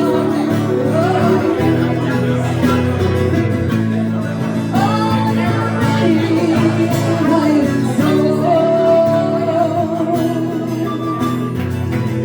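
Live acoustic performance of a slow ballad: guitar accompaniment under a held, gently sliding melody line.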